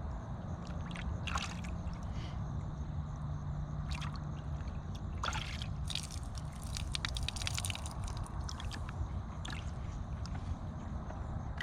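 Water sloshing and splashing in a horse's automatic waterer as a horse drinks from hands held in the water, with short slurps and drips several times, over a steady low rumble.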